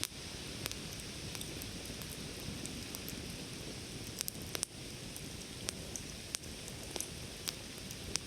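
Wood campfire burning, with a steady hiss and irregular sharp crackles and pops, about a dozen of them, several close together around the middle.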